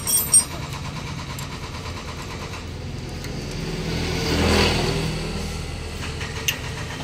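Honda CB125 motorcycle engine running steadily, swelling in a brief rev about four to five seconds in.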